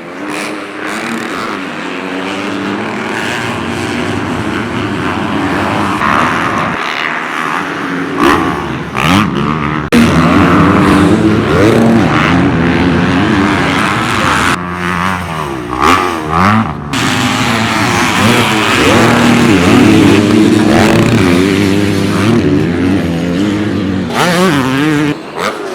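Several motocross dirt bikes racing, their engines revving up and down through the gears, with bikes passing close by several times in the middle.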